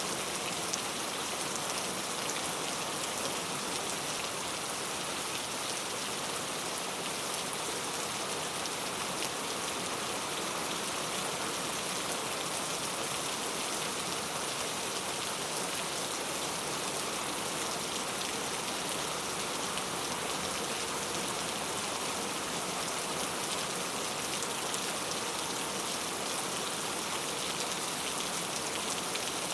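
Heavy rain falling steadily on street surfaces, an even, unbroken hiss of drops with no let-up.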